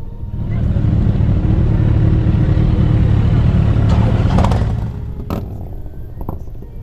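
Motorcycle engine growing loud about half a second in, running hard for about four seconds, then dropping away.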